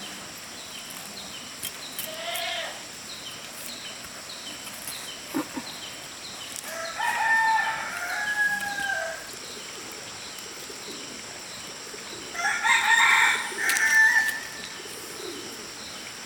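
Rooster crowing twice, each crow lasting about two seconds, the first a little past six seconds in and the second about twelve seconds in. A shorter call comes near the start.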